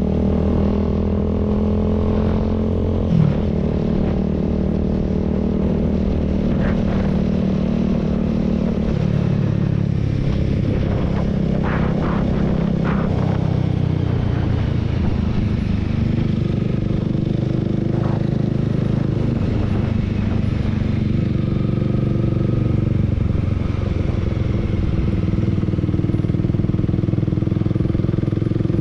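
Honda Rebel 300's single-cylinder engine running steadily under way, heard from the saddle, its pitch pattern changing about nine seconds in. A single sharp knock comes about three seconds in.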